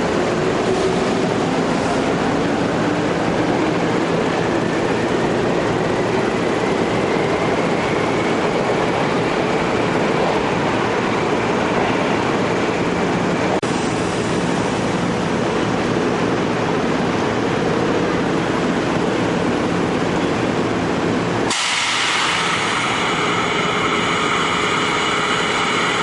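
Seibu N101-series electric train under power in its start-up test, with a dense running noise and a motor whine that rises in pitch over the first ten seconds or so. About twenty seconds in, the sound changes abruptly to a set of steady high whines.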